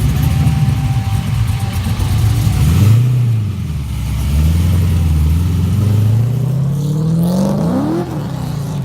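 A car's engine as it pulls away: running low at first, blipping briefly about three seconds in, then accelerating with its pitch climbing steadily for several seconds before it drops back near the end.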